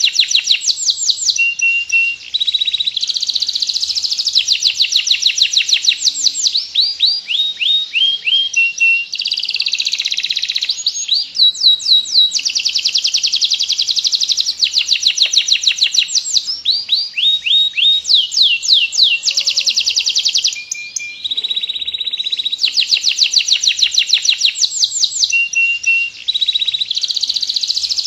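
Domestic canary singing continuously in long, fast rolling trills of rapidly repeated high notes, some phrases falling in pitch, with only brief pauses between phrases.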